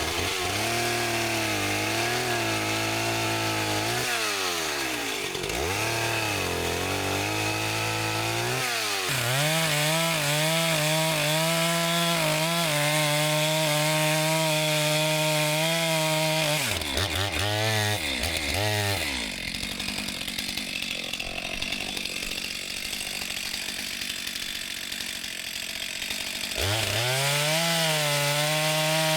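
Two-stroke chainsaw running at high revs, its pitch rising and falling. About two-thirds of the way through it drops back and runs quieter, then revs up again near the end.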